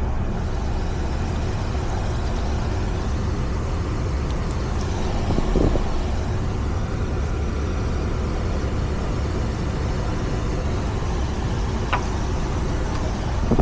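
A van running, with a steady low rumble of engine and road noise.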